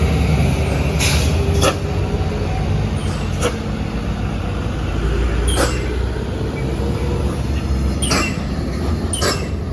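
Heavy diesel truck engine labouring under load on a steep climb, a loud steady low rumble, with six short sharp hissing bursts along the way.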